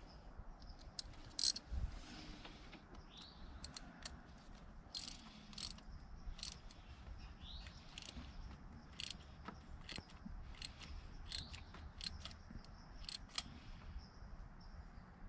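Ratchet wrench clicking in short runs of strokes as a spark plug is turned in the cylinder head.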